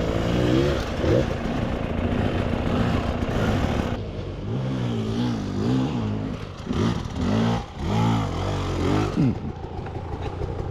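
Single-cylinder two-stroke engine of a KTM 300 XCW dirt bike revving up and down on trail terrain. There are several quick throttle blips in the second half.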